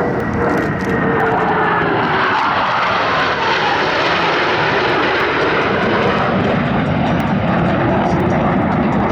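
Blue Angels F/A-18 Hornet jets passing at an airshow. The jet roar starts with a whine that drops in pitch over the first couple of seconds as they go by, then settles into a loud, steady roar.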